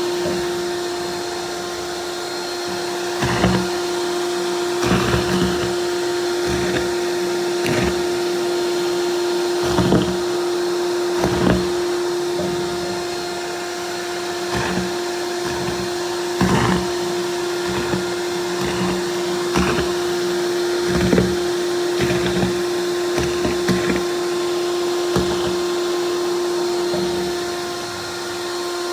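Vacuum cleaner running steadily with a constant motor whine. Irregular knocks and bumps come every second or two over it.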